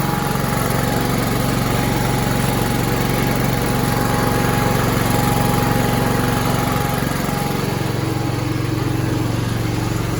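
Allis-Chalmers tractor's Kohler engine running steadily on a newly installed head gasket, being left to run and warm up.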